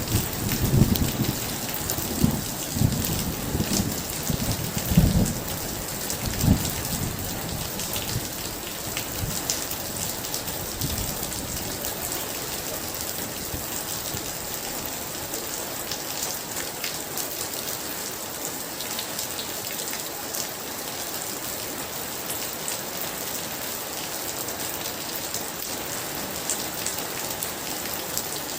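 Heavy rain falling steadily, with a deep rolling rumble of thunder in the first several seconds that dies away, leaving only the rain.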